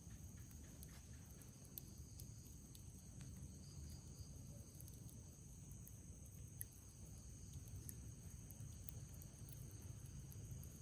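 Faint night insects, crickets among them, trilling in a steady high chorus, with scattered faint crackles from a wood campfire and a low rumble underneath.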